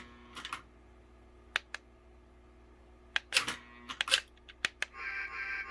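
Irregular sharp plastic clicks, some in quick pairs, from buttons being pressed on the handheld LionChief train remote while cycling its control modes.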